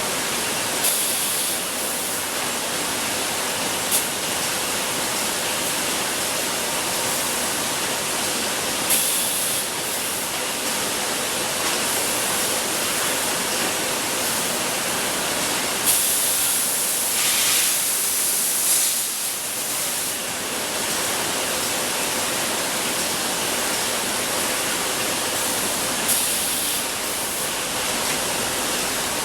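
Steady, loud running noise of bottled-water production-line machinery, with several short, sharp hisses, the longest about halfway through.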